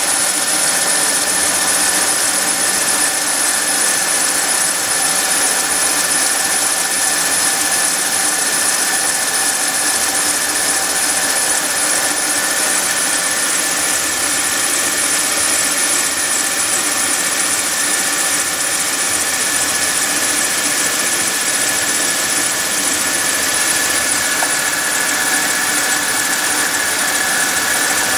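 Mercedes R350's 3.5-litre V6 running at a steady idle, with a constant high-pitched squeal from the front of the engine.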